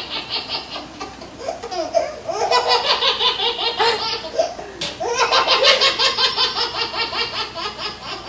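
High-pitched laughter in quick repeated pulses, coming in three bouts, the last and longest running about three seconds.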